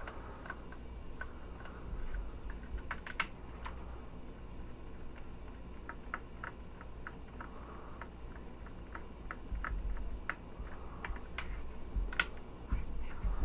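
Small, irregular clicks and taps from hard parts of a toy robot figure being handled and worked apart, with a few sharper clicks about three seconds in and near the end.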